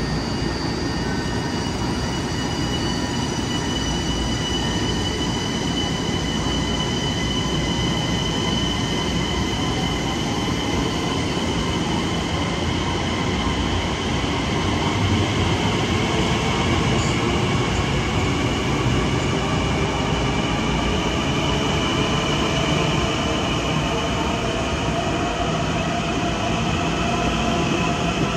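Long Island Rail Road electric multiple-unit train moving through the station: a steady rumble with several high whining tones that drift slightly in pitch.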